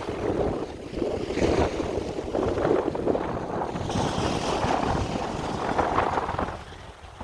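Wind buffeting the microphone: a gusting, uneven rumble that swells and eases, dropping away just before the end.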